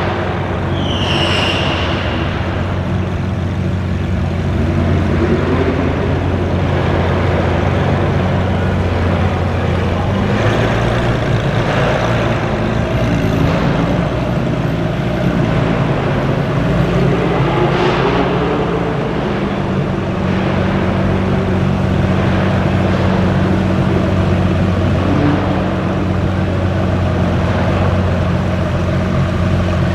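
Lamborghini Aventador SVJ's V12 engine idling steadily, its pitch rising and easing back a couple of times.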